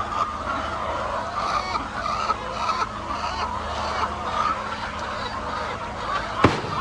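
A large flock of chickens calling and clucking together in a steady, dense chatter, with one sharp knock a little before the end.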